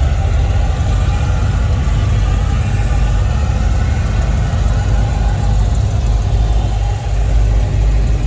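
Classic car engine running at low speed as the car rolls in, a steady low, pulsing engine note.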